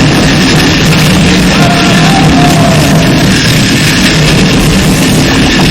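Harsh noise music: a dense, distorted wall of noise at a constant high level, with a faint tone sliding briefly about two seconds in.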